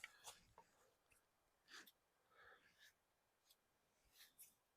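Near silence, broken by a few faint, scattered rustles and crunches of footsteps on the forest floor.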